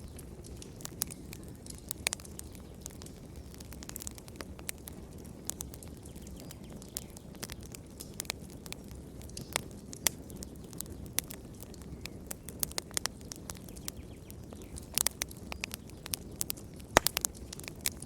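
Wood fire crackling: a steady low rumble with scattered sharp pops and snaps at irregular intervals, a quick run of pops about three-quarters of the way through and the loudest snap shortly after.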